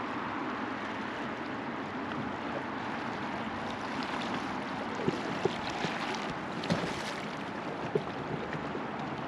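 River water flowing steadily around a floating raft, with a handful of short, sharp clicks in the second half.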